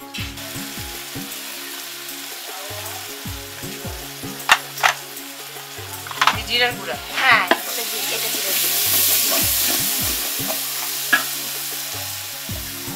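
Food sizzling in oil in a large metal pot over a wood-fired clay stove, with a few sharp clicks of a metal spatula stirring and scraping the pot. The sizzling grows louder about halfway through.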